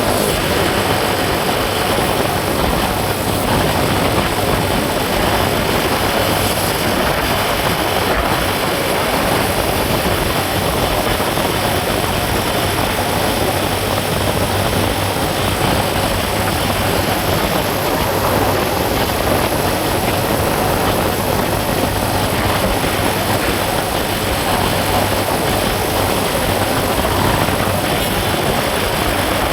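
Steady, even vehicle noise, engine and travel rumble, running without a break.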